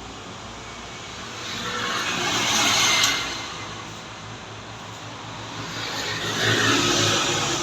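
Motor vehicles passing by on a road, their sound swelling and fading twice: loudest about three seconds in and again near the end.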